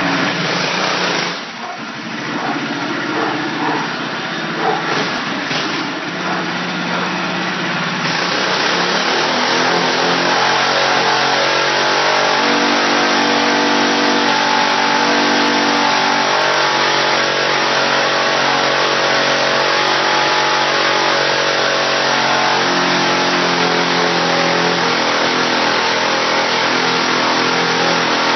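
Mini bike engine revving hard during a burnout, the rear tyre spinning against the ground. The revs rise and fall unevenly at first, then from about eight seconds in hold high and steady under load.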